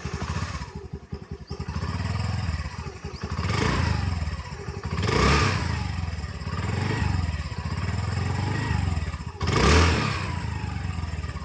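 Honda Activa 125 scooter's single-cylinder four-stroke engine idling, its exhaust note rising in three short throttle blips, about a third, half and most of the way through.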